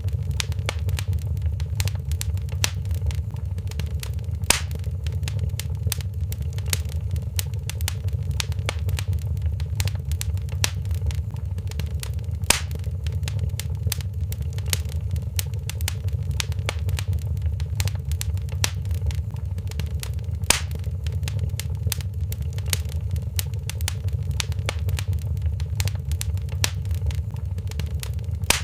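Wood fire in a fireplace crackling steadily: dense small crackles over a constant low rumble, with three louder pops about eight seconds apart.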